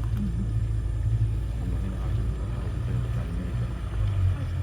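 Tour boat's motor running steadily as the boat moves along the river, a low drone whose note shifts slightly about four seconds in.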